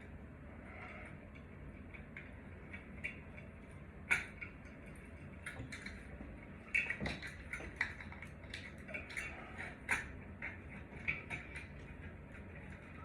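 Irregular light clicks, ticks and small clinks of hard parts being handled, with a few sharper knocks, over a steady low hum.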